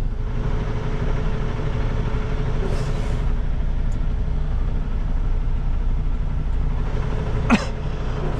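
International LT semi truck's diesel engine running steadily at low revs, a deep continuous rumble. One brief, sharp sound comes near the end.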